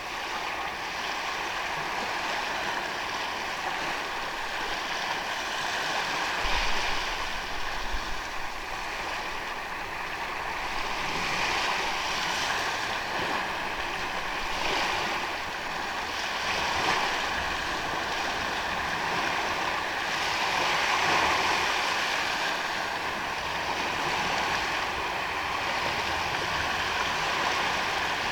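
Ocean waves washing onto a sandy beach, the surf hiss swelling and easing every few seconds.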